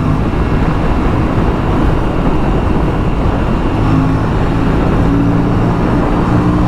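Aprilia RS 457's parallel-twin engine running at a steady cruise, under heavy wind rush on the rider's microphone. The engine's steady hum comes through clearer from about four seconds in.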